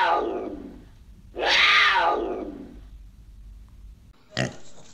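Leopard calling twice: two long, loud calls, each falling in pitch, the second beginning about a second in. A short pig grunt cuts in near the end.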